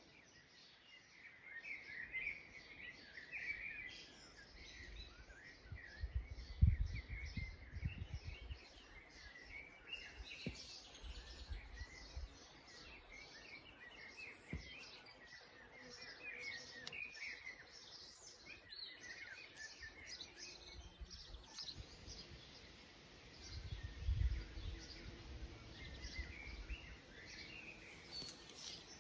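Small songbirds singing and chirping all through, a busy chorus of short high notes. Low rumbles come in twice, about six seconds in and again near twenty-four seconds.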